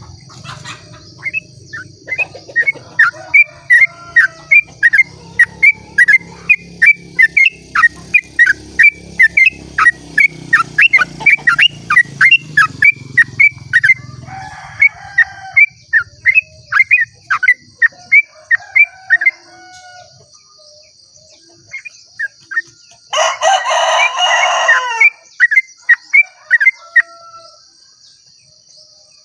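Yellow-vented bulbul (trucukan) singing a long 'ropel' run: a rapid series of short, sharp down-slurred notes, about two to three a second, thinning out after about 19 s. A louder, harsher call of about two seconds cuts in near the end, followed by a few more bulbul notes.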